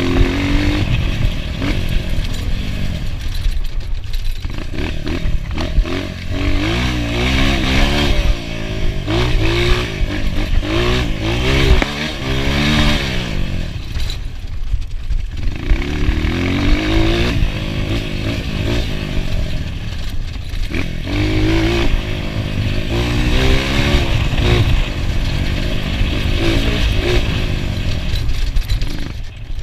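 Enduro motorcycle engine revving hard and easing off again and again, its pitch climbing and falling every second or two, with clattering over rough ground.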